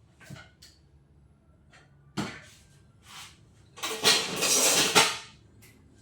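Workshop handling noises as motorcycle parts are moved: a couple of light knocks, a sharper knock about two seconds in, then about a second of loud scraping rustle.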